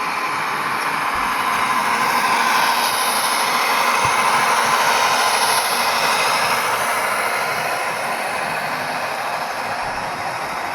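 A model train running past on the layout, a steady whirring rush that swells to a peak in the middle and fades as it goes by.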